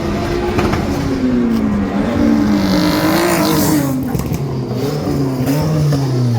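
Tuned car engine running hard, its pitch falling away, climbing briefly about three seconds in, then dropping lower again.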